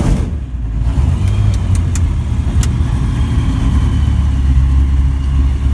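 Zenith CH 601 Zodiac light aircraft's engine and propeller running steadily just after start-up: a low, even rumble with a few faint clicks.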